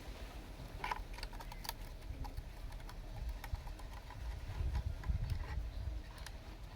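Small plastic clicks and taps from a toy RC bulldozer, irregular and scattered, over a low rumble that swells about four to five seconds in.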